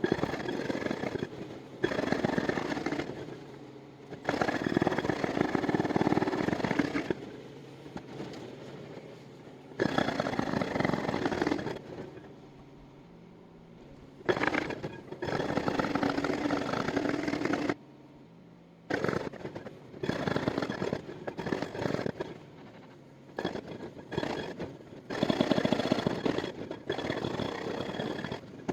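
Excavator-mounted hydraulic breaker hammering in repeated bursts of one to three seconds, each a dense rapid pounding. Between the bursts a lower, steady machine hum carries on.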